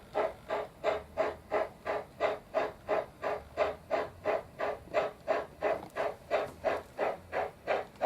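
Sound decoder (ESU LokSound) in a Trix model Big Boy steam locomotive playing steady steam exhaust chuffs, about three a second, as the model runs.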